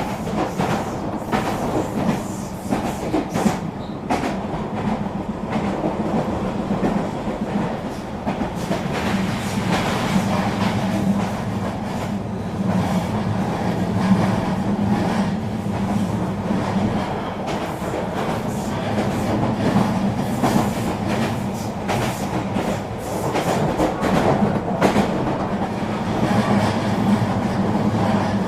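Eurobahn electric regional train running along the track: a steady hum and rumble, with the wheels clicking over rail joints again and again.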